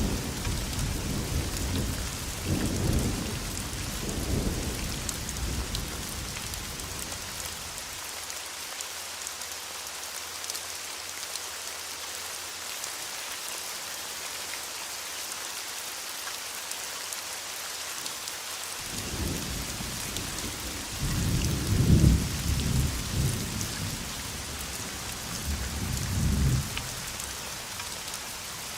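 Steady heavy rain falling, with rolling thunder rumbling at the start and dying away after about six seconds. A fresh roll of thunder builds about two-thirds of the way through, peaks, and fades near the end while the rain keeps on.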